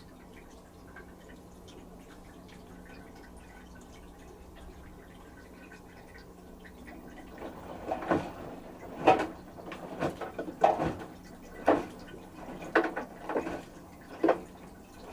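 LG direct-drive washing machine at the start of its final spin: a faint steady drum-motor hum with water draining. About halfway through, the wet laundry starts sloshing and thudding in the turning drum, roughly once a second, as the load is balanced before spinning up.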